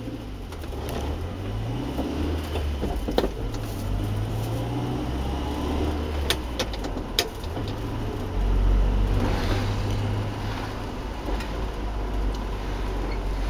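Toyota OHV engine heard from inside the cabin, pulling away from a standstill and accelerating, its low drone rising and stepping in pitch and growing louder about eight seconds in. A few sharp clicks come through.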